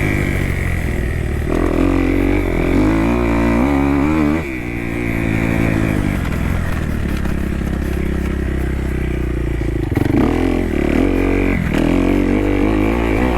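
Kawasaki KX250F four-stroke single-cylinder dirt bike engine revving up and down on a motocross track. The throttle comes off sharply about four seconds in, the engine holds a steadier pitch for a few seconds in the middle, then it revs up and down again near the end.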